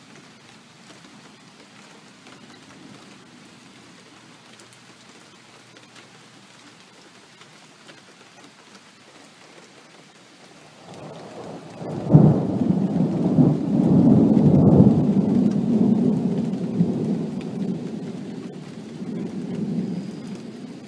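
Steady rain, then a rolling thunderclap: the rumble begins about halfway through, cracks loudly a second later and rolls on, slowly fading toward the end.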